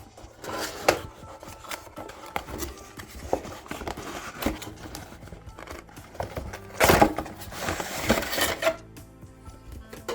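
Cardboard box and plastic packaging of a diecast model car being handled and opened: irregular clicks, knocks and rustles, with a louder stretch of scraping and rustling about seven seconds in. Faint background music underneath.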